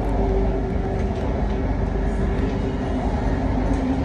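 Bangkok BTS Green Line electric train running, heard from inside the passenger car: a steady rumble with a faint humming tone that shifts lower near the end.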